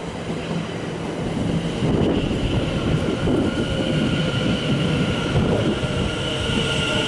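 Class 730 Aventra electric multiple unit running into the platform and slowing: a rumble of wheels on the rails that grows louder about two seconds in, with a steady high squeal over it and a lower tone that slowly falls as it slows.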